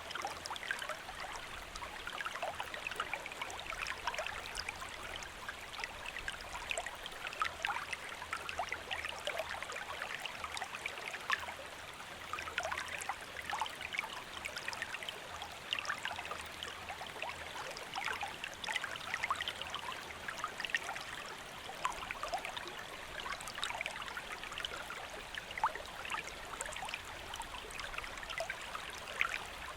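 Shallow stream flowing steadily over rocks, a continuous babble of small trickles and splashes.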